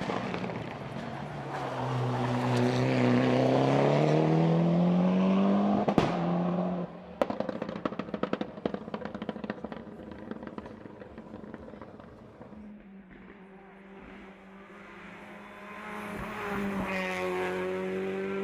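Racing car engine at hard throttle with its pitch climbing. About seven seconds in the note cuts off and a rapid string of sharp cracks follows, typical of exhaust pops when the throttle closes. Later an engine is heard running steadily, then rising again and growing louder near the end.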